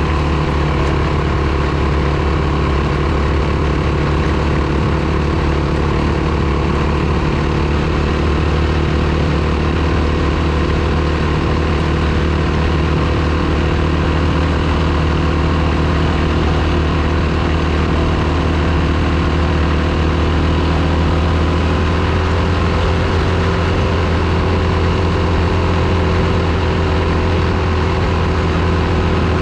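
Single-cylinder four-stroke dirt bike engine running at a steady, almost unchanging pitch.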